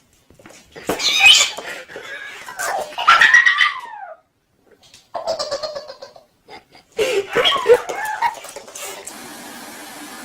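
Cats yowling in several separate drawn-out calls, their pitch bending up and down, with short silent gaps between them.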